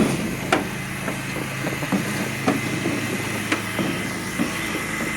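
Footsteps going down stairs, irregular knocks every half second to a second, over a steady low machine hum like an engine running.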